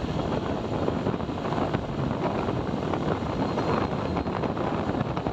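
Wind buffeting the microphone over the steady noise of a motorcycle riding along a highway.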